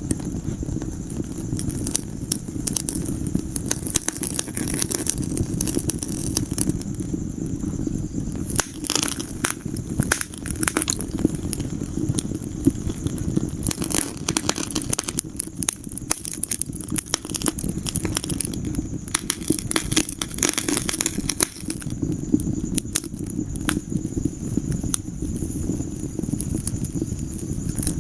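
Wood fire burning in a fireplace: irregular sharp crackles and pops over a steady low rumble of flames, with thicker spells of crackling in the middle.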